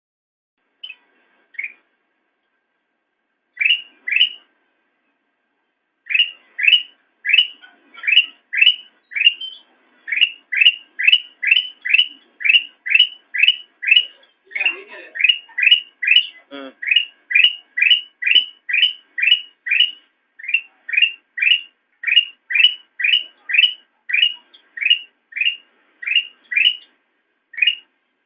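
Kutilang emas (a bulbul) calling a long run of short, falling, whistled notes. A few notes are spaced out at first, then from about six seconds in they come in a steady series of about two a second.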